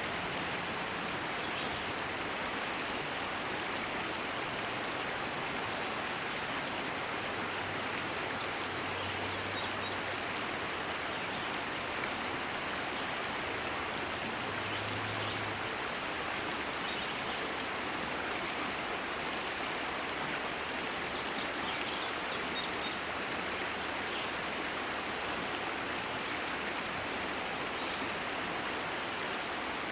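River water flowing steadily over a shallow stretch, an even rushing noise, with a few faint high chirps about a third of the way in and again past two thirds.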